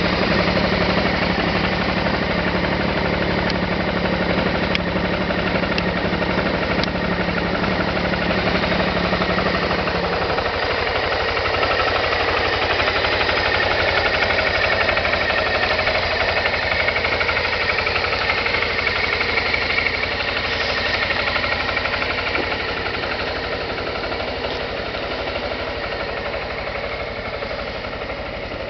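Suzuki Skywave 250 FI scooter's single-cylinder four-stroke engine idling steadily, with a low steady hum that drops away about ten seconds in.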